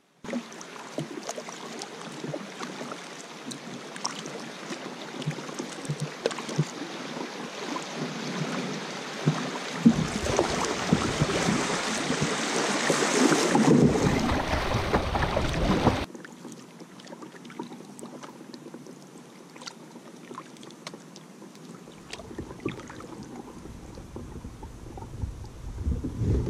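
Water rushing and splashing around a kayak moving down a river, with scattered small knocks and splashes. It swells and grows louder with deep rumble toward the middle, then cuts abruptly to quieter water with light splashes.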